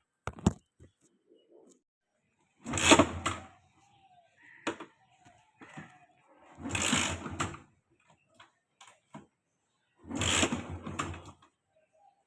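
Yamaha FZS motorcycle engine being cranked three times, about a second each, with the choke pulled, and not catching. Two sharp clicks come just before the first try.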